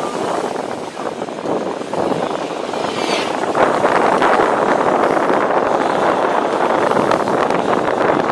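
Wind rushing over the microphone while riding in traffic, a steady rushing noise that grows louder about three and a half seconds in.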